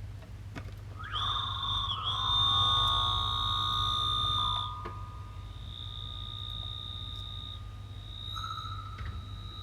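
Harsh-noise electronics from an effects-pedal chain of delays, filter and EQ, played through a small Danelectro Honeytone amp: sustained high-pitched squealing tones over a steady low hum. About a second in the squeal swells louder and denser for a few seconds, then falls back to a thinner, steady whine.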